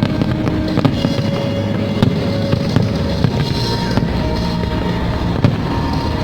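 Aerial fireworks bursting and crackling in quick, irregular bangs, some close together, with the show's music playing underneath.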